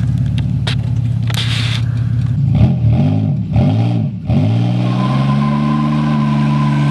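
Pontiac Grand Am V6 on a straight-pipe exhaust with the catalytic converter still fitted, idling with a deep rumble. About two and a half seconds in it is blipped three times in quick succession, each rev rising and falling. It then revs up and holds a steady higher rpm.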